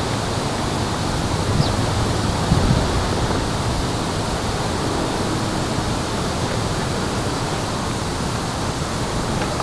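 Steady rushing outdoor noise, like wind or running water, with a faint short bird chirp about a second and a half in and another near the end.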